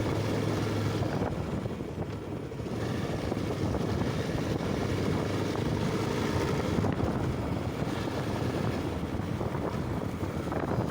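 Motorcycle riding: the engine runs steadily under wind rushing over the microphone.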